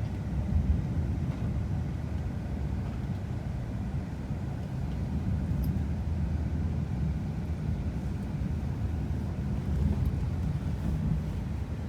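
Steady low rumble of a Shinkansen train running, heard from inside the passenger car.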